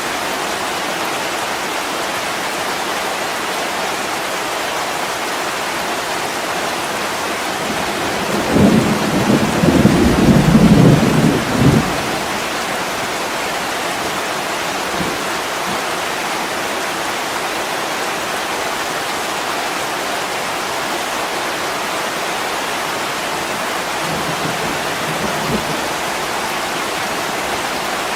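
Steady heavy rain on a window, with a rumble of thunder lasting about three seconds about a third of the way in and a fainter rumble near the end.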